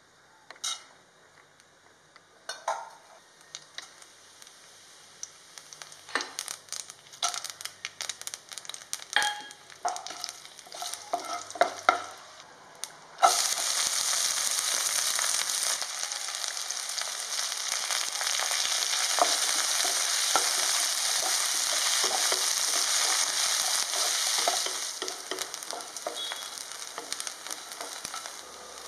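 Scattered sharp clicks and pops from spices frying in a little oil in a non-stick pan. About thirteen seconds in, chopped shallots hit the hot oil and a loud, steady sizzle starts as they are stirred with a wooden spatula; it dies down a few seconds before the end.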